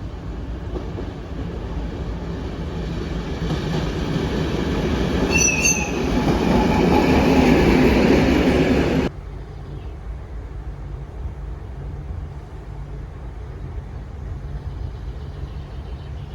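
Train passing, growing louder, with a brief high wheel squeal about five seconds in. It cuts off suddenly about nine seconds in, leaving a lower steady rumble.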